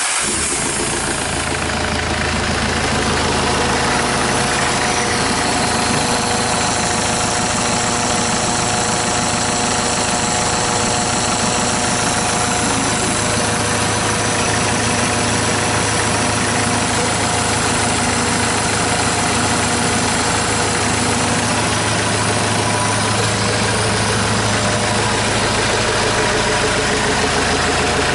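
Hyundai D4CB 2.5-litre four-cylinder common-rail diesel engine, run outside a vehicle, starting up suddenly and settling into a steady idle with diesel knock.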